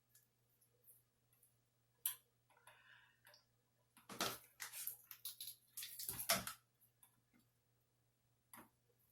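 Faint sounds of hands working styling gel through wet hair while shingling it: scattered light clicks, then a couple of seconds of wet rubbing and rustling about four seconds in.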